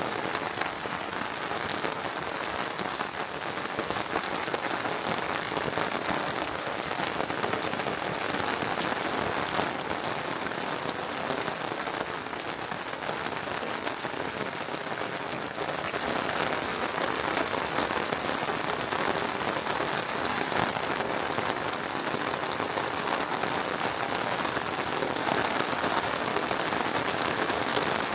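Steady rain falling, a dense even hiss of many small drop hits, a little heavier from about halfway through.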